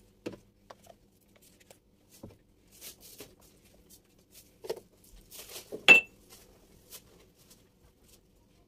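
Kitchenware being handled: scattered light knocks and clinks, with one sharp ringing clink about six seconds in.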